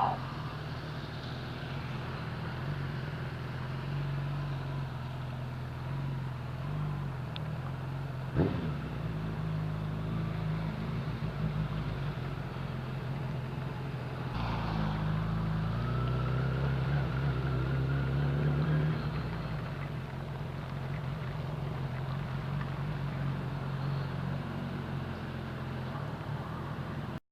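Motorcycle engine running under way, with steady wind and road noise. There is a sharp click about eight seconds in. About halfway through, the engine note climbs and gets louder, then eases off a few seconds later.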